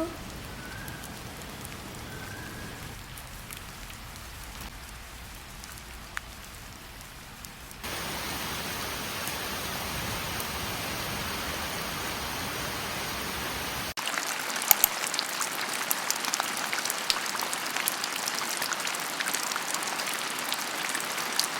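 Steady rain, in three abruptly cut sections: a soft hiss, then a louder even hiss about a third of the way in. From about two thirds in it is heavier, with many sharp drops tapping on a surface.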